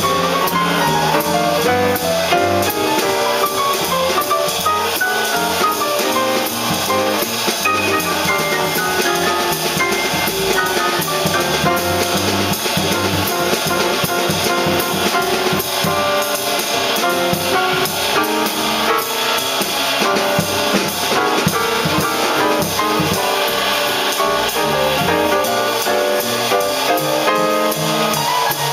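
Live jazz quartet playing: drum kit, bass and busy melodic lines in many quick notes.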